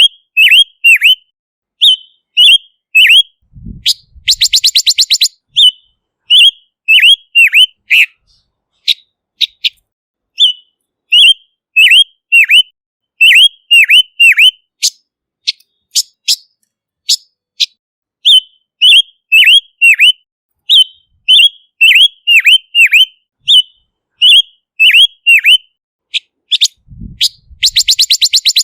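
Silver-eared mesia calling: a steady series of short, sharp downward-slurred notes, repeated in quick groups, broken twice by a rapid buzzy rattle, about four seconds in and again near the end.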